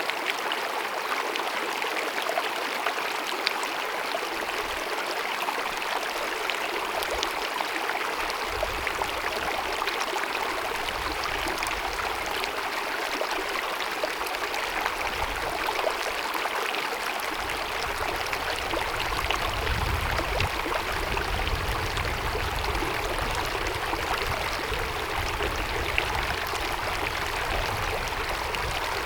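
Small mountain meadow stream babbling steadily, an even rush of running water with many small splashes.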